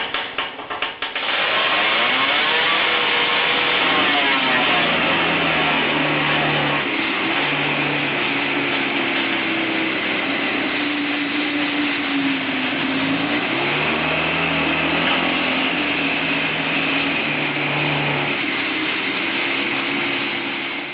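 A motor engine running steadily, its pitch wavering up and down as the revs change.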